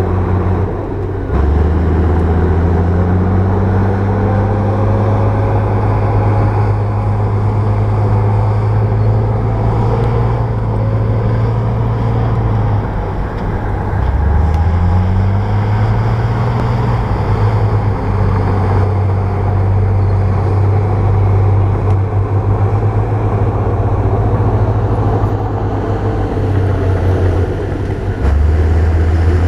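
Bulldozer's diesel engine working under load. The engine note dips and climbs again a couple of times as the revs change, with a step up in revs near the end.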